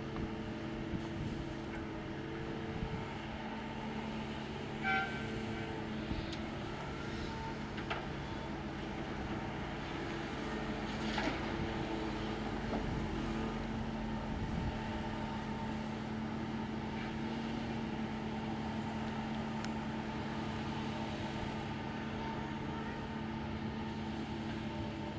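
Heavy diesel engines of a hydraulic excavator and dump trucks running steadily, with a few short metallic clanks and clinks about five and eleven seconds in.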